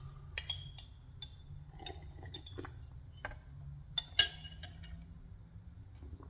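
Tableware clinking: a handful of light, short clinks of dishes and utensils, with two sharper ringing ones about half a second in and about four seconds in.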